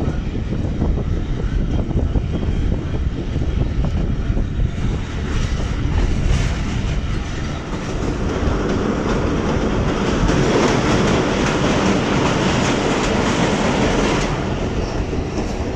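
Passenger train coach running along the track, a steady rumble and rattle of wheels on the rails heard from an open coach doorway. The noise grows louder and brighter about halfway through and eases back shortly before the end.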